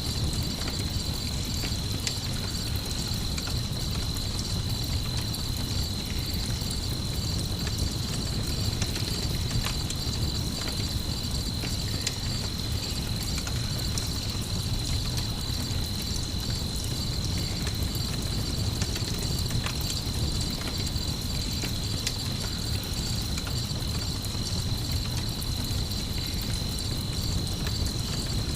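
A mixed night ambience: crickets chirping steadily in a high pulsing trill, over a low steady rumble with scattered crackles of a campfire.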